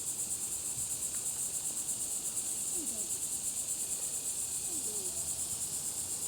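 Steady, high-pitched trilling chorus of insects.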